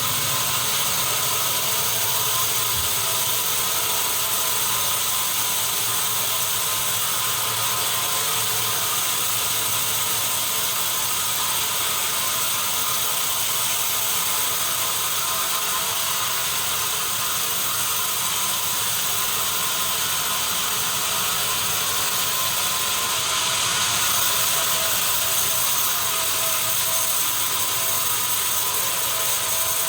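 Sawmill machinery running steadily, a dense, even mechanical noise with several steady whining tones.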